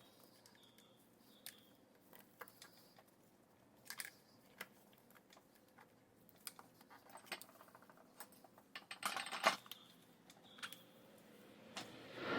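Scattered light clicks and clinks of small tools and parts being handled, with a quick run of clicks about nine seconds in and a brief rushing swell near the end.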